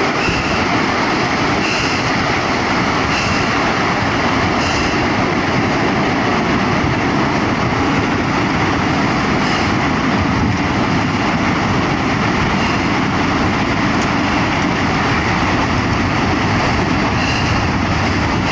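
Steady, loud rushing roar of a tsunami surge: masses of seawater pouring in, with no let-up.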